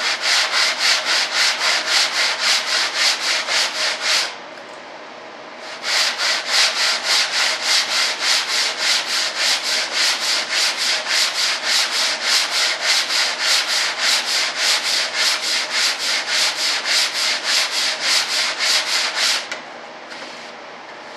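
Hand sanding on a part of a model airplane: quick back-and-forth strokes of sandpaper, about three to four a second. They pause for a second or two about four seconds in, then run on until they stop near the end.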